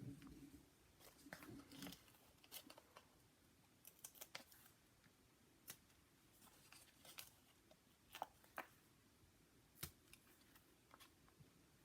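Faint, scattered clicks and taps of paper and small crafting tools being handled during card making.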